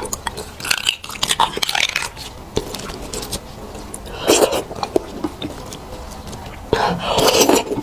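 Close-miked eating sounds: chewing and biting into beef bone marrow, with wet mouth clicks and smacks. Two louder, longer bites come about four seconds in and near the end.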